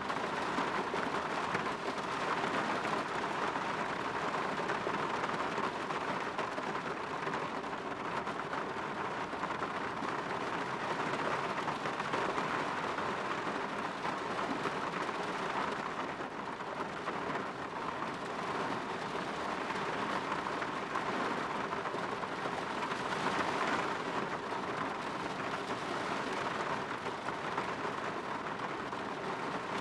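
Steady rain falling on a window, an even patter that swells slightly now and then.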